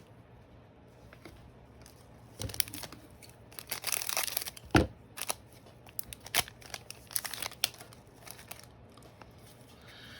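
A trading card pack being torn open, its wrapper crinkling and rustling in a string of short bursts over several seconds, with one sharp click about halfway through.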